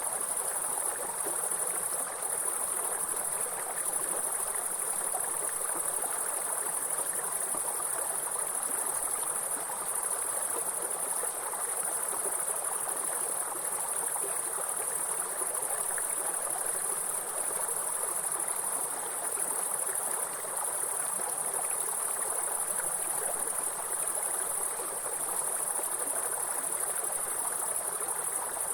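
A steady, high-pitched insect chorus over the even rush of flowing stream water, both unchanging throughout.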